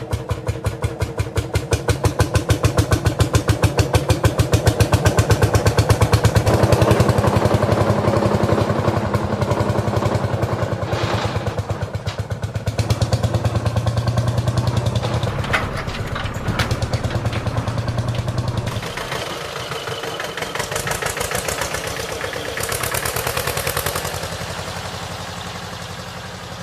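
Tractor engine chugging with a fast, even putter. It gets louder about six seconds in, and the deep part of the sound thins out around nineteen seconds in.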